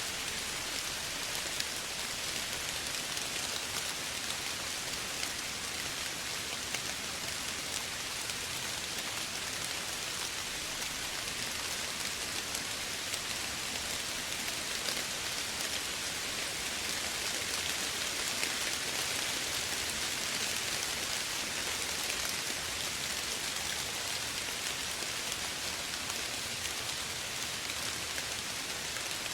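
Steady soft rain falling, an even hiss with many small drop ticks.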